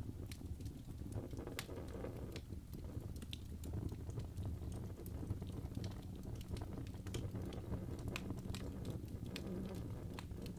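Wood fire crackling in a fireplace: a steady low rumble with sharp pops and snaps at irregular intervals.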